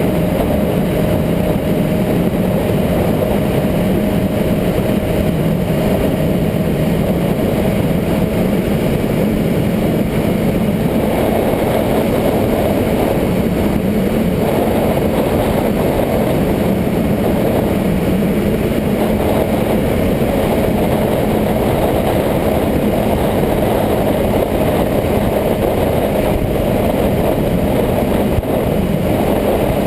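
Motorcycle engine running steadily at a fairly constant pitch, under a dense steady noise.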